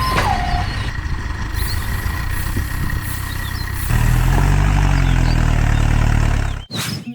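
An engine running with a low, steady rumble. It gets louder and fuller about four seconds in, then cuts off abruptly near the end.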